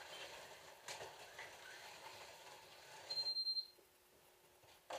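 Slot cars running on the track, with a sharp click about a second in. About three seconds in, a high electronic beeper sounds in a quick pulsing series for about half a second, and then the running noise drops away.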